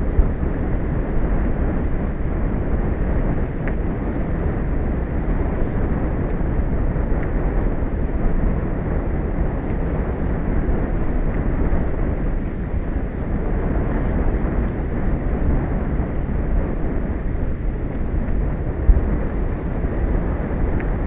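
Steady wind buffeting the microphone, a constant low rumble over the sound of the open sea.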